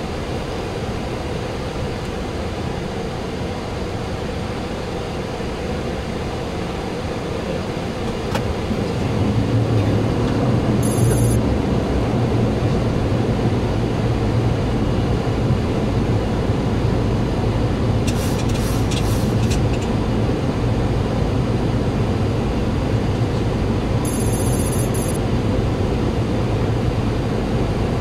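Steady cockpit noise of a Boeing 737-800 on approach: airflow rushing over the flight deck and engine noise, with no speech. About nine seconds in it grows louder, with a deeper rumble. Brief high-pitched chirps come three times later on.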